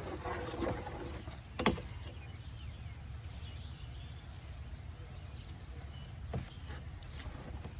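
Steady low outdoor rumble with a few sharp knocks, the loudest about a second and a half in and a smaller one near the end, and faint high chirps.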